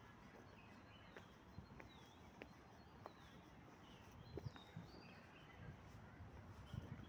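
Faint outdoor ambience: scattered short bird chirps over a low hiss, with soft footsteps on paving in the second half.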